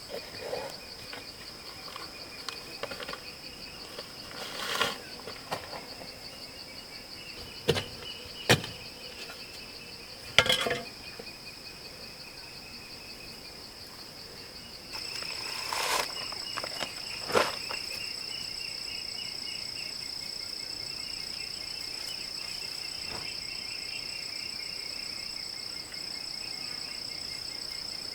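Insects chirring steadily at a high pitch, getting louder about halfway through, with a handful of sharp knocks in the first half.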